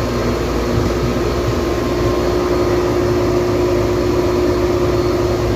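Whirlpool 13 kg washing machine's drum motor spinning at full spin speed, about 1200 rpm, with a steady hum and low rumble. This is the final spin stage of the machine's test mode.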